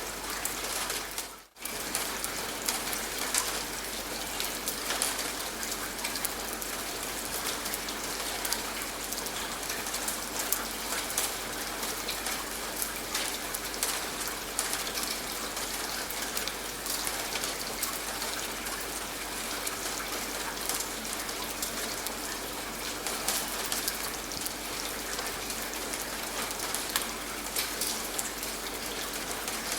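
Steady rain, with a dense hiss of rainfall and many individual drops ticking on a surface. The sound briefly drops out and returns about a second and a half in.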